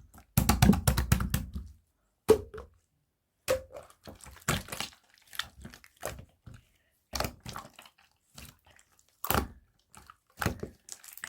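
Hands squishing and stretching marbled gold slime, giving irregular sticky pops and crackles, with a longer run of squelching about half a second in.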